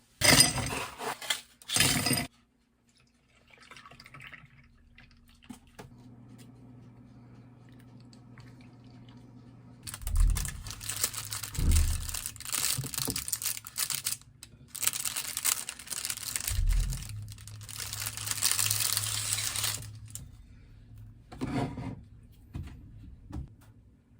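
Wrapping material crinkling and tearing during food preparation. There are two sharp bursts at the start, then a longer spell of repeated rustling and crinkling midway through, with a brief last burst near the end.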